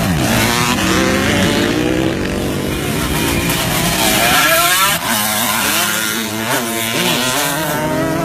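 Several vintage motocross bikes racing on the track, their engines revving up and dropping back through the gears, with one bike's engine climbing sharply in pitch just before the middle.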